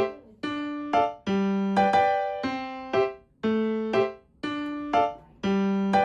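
Background music: a gentle keyboard melody of single struck notes, about two a second, each dying away.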